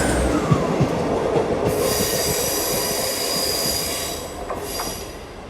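A train running on the rails as it draws away, its wheels squealing with high, steady ringing tones for a few seconds in the middle while the running sound fades.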